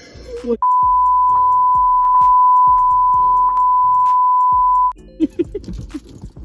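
A steady single-pitch beep held for about four seconds, starting just after the beginning and cutting off sharply near the end, over background music: a censor bleep dubbed over the conversation.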